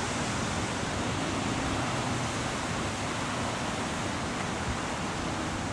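Steady wind rushing, with low buffeting on the microphone.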